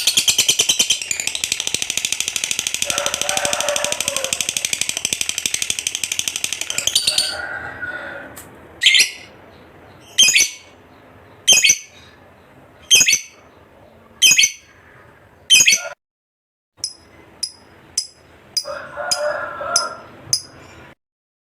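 Lovebird's long, very fast high-pitched chattering trill (the 'ngekek') for about seven seconds. It then breaks into single sharp chirps about every second and a half, and ends with a quick run of short chirps.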